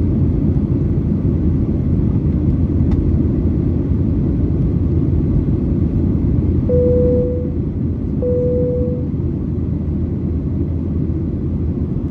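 Steady cabin rumble of a Boeing 737-900ER in flight, from its CFM56-7B engines and the airflow. About halfway through come two short chimes of the same pitch, about a second and a half apart, and the rumble drops a little.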